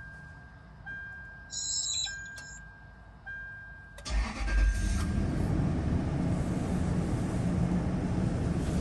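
A faint electronic tone sounds on and off. About four seconds in, a Toyota 2UZ-FE 4.7-litre V8 is cranked and catches, then settles into a steady idle on fresh oil just after an engine flush.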